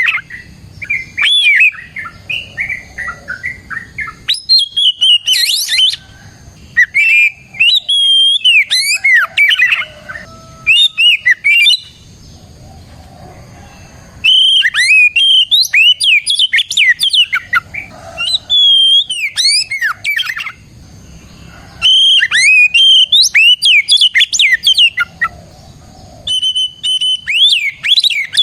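Oriental magpie-robin (kacer) singing loud, varied whistled song phrases full of quick rising and falling notes, in bouts of a few seconds with short pauses between.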